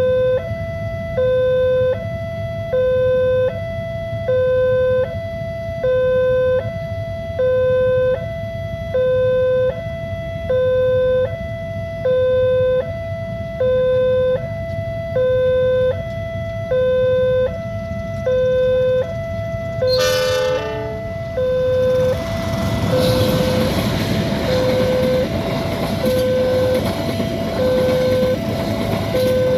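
Level crossing alarm sounding a two-tone electronic warning, a low and a higher tone alternating about every 0.8 s. About 20 s in, a short sound drops steeply in pitch, and then a train passes with a steady rumble under the continuing alarm.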